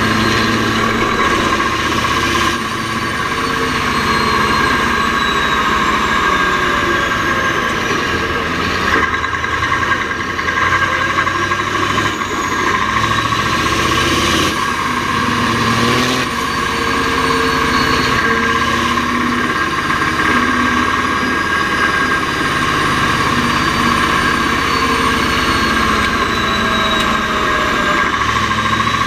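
Mack R-series V8 truck engine running under way, its pitch rising and falling several times, with a steady high whine over it.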